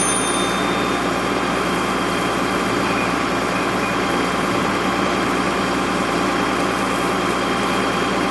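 An engine idling steadily, a constant drone with no changes in speed.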